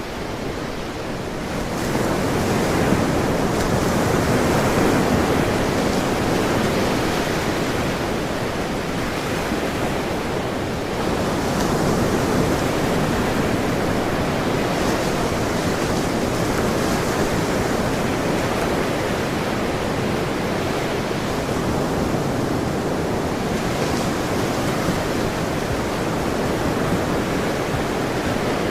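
Ocean surf: waves washing and breaking in a steady rush, swelling about two seconds in and again about eleven seconds in.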